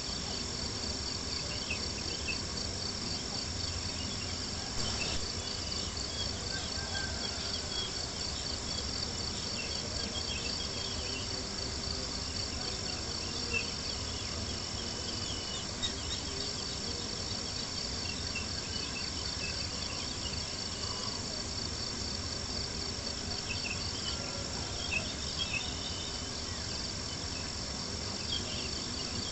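Steady chorus of crickets chirping, with occasional small pops and crackles from a campfire.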